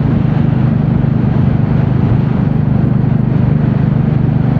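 Royal Enfield Classic 350's single-cylinder engine running steadily at a cruise, its exhaust pulsing evenly, over a constant rush of wind noise.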